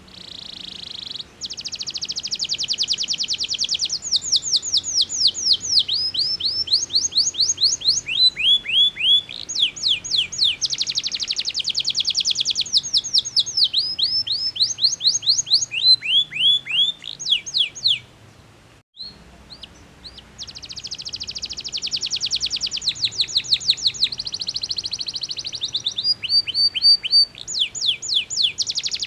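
Domestic canary singing: a long, loud rolling song of rapid trills and repeated downward-sweeping notes, broken once by a pause of about two seconds partway through.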